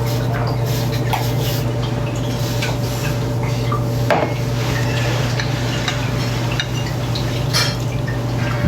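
Fork or utensils clicking and scraping against a salad bowl while eating, with small light clicks scattered throughout and a sharper clink about four seconds in. A steady low hum runs underneath.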